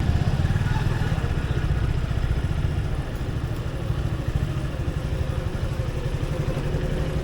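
Motorcycle engine running steadily at low revs, a low, even pulsing.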